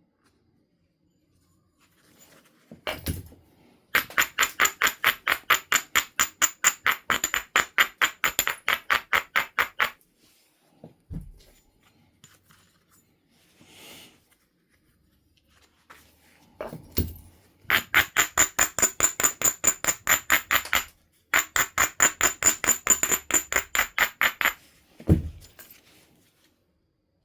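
Stone abrader rubbed rapidly back and forth along a flint edge, about five strokes a second, with a scratchy, ringing tone. It comes in three runs, with single knocks of stone on stone between them.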